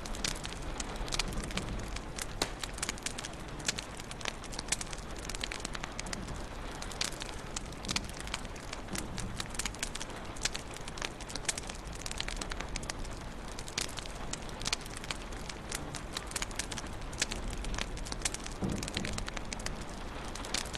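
Wood fire crackling in a fireplace: many irregular sharp pops and snaps over a steady hiss and low rumble.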